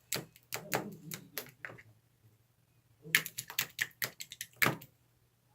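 Slime being squeezed and pressed by hand, giving quick runs of sharp clicks and pops in two bursts of about two seconds each, with a pause of about a second between them.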